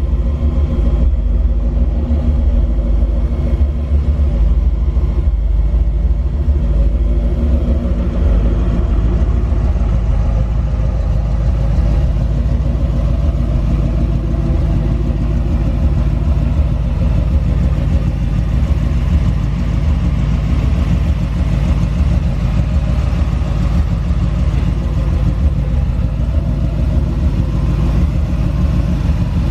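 Ford 351 V8 with Flowmaster dual exhaust running steadily, with a deep exhaust note.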